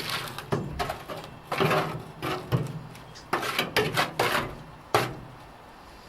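Irregular scraping, rubbing and knocking, about eight short bursts in a few seconds, from cleaning out a parts-washer tank by hand.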